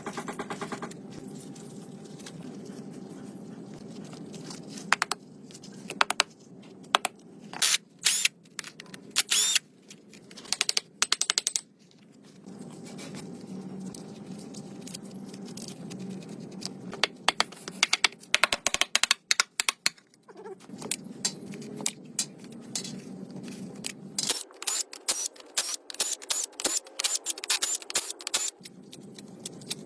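Hand tools clicking and tapping on metal parts in irregular quick runs, over a steady low hum.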